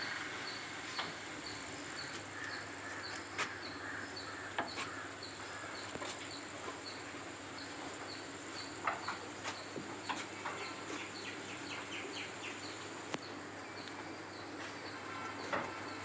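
Outdoor ambience of birds and insects: a short high chirp repeats about twice a second, with scattered bird calls and sharp clicks over a steady background hiss.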